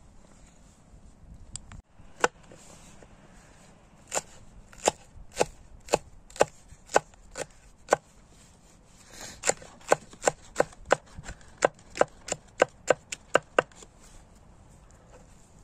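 Repeated chopping strikes, about two a second, in two runs with a short pause between them.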